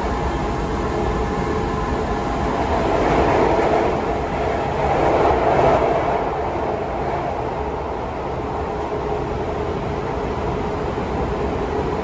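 Sotetsu 9000 series electric train running, heard from inside the passenger car: a steady rumble of wheels on rail with a faint motor hum. It swells louder a few seconds in as the train goes into a tunnel, then settles.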